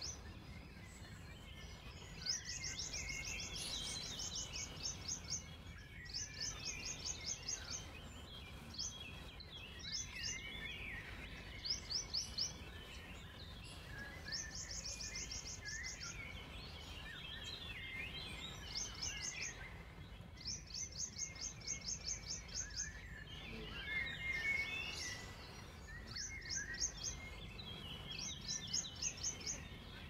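Songbirds singing: one keeps repeating short bouts of a rapid, high trill of evenly spaced notes, about a dozen times, with lower warbling chirps in between. A steady low background noise runs underneath.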